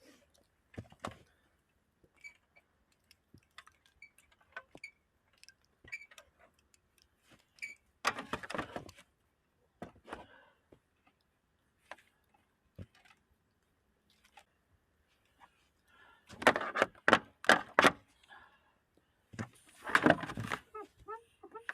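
Intermittent clicks, knocks and rustling of things being handled. A run of about six sharp, loud clicks comes roughly three-quarters of the way through, and a rustling clatter follows near the end.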